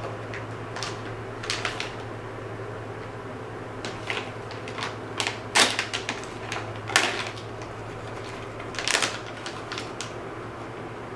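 Plastic dog-treat bag being handled and opened, with irregular crinkling and crackling clicks throughout, over a low steady hum.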